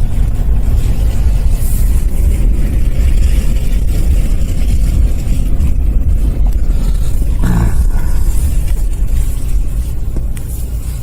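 Car driving, a loud steady low rumble of engine and road noise, with a short higher rise-and-fall sound about seven and a half seconds in.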